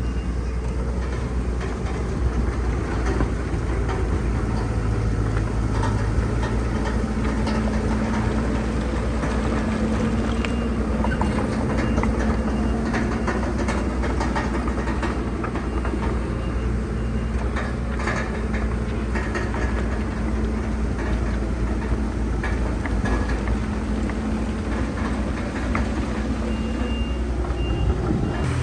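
Heavy diesel earthmoving machinery, bulldozer and dump trucks, running steadily at work, with scattered clanks and rattles of tracks and rock. A high, steady backup alarm beeps for a few seconds midway and again near the end.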